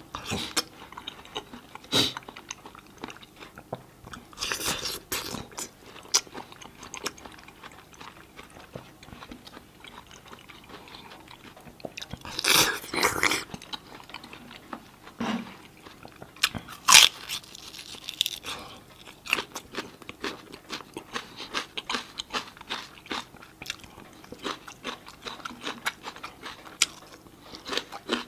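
Close-miked biting and chewing of crisp raw chunks: a run of sharp crunches and wet chewing, with louder crunching bites about 2, 5, 13 and 17 seconds in.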